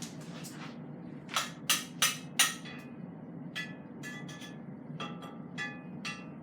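A cooking utensil knocks and clinks against a pot on the stove: four sharp knocks in quick succession, then several lighter clinks that ring briefly. A steady low hum runs underneath.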